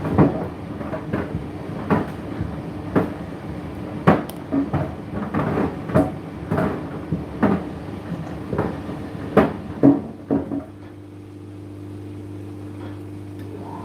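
Indesit IDC8T3 condenser tumble dryer running with a steady motor hum while the load tumbles and knocks irregularly against the turning drum. The knocking stops about ten seconds in, leaving just the hum.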